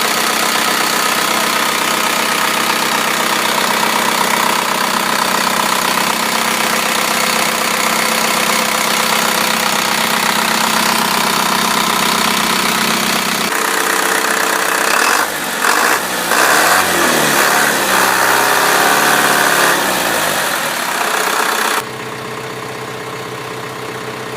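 Engine of a 2000 GMC W4500 truck running at idle, steady for most of the stretch. Its sound changes about halfway through and drops quieter near the end.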